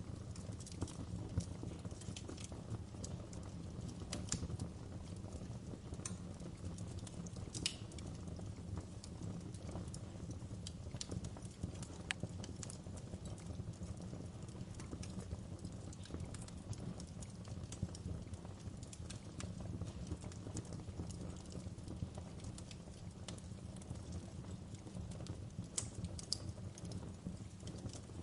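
Campfire burning: a steady low rumble of flames with irregular sharp crackles and pops scattered through it, a few louder pops standing out.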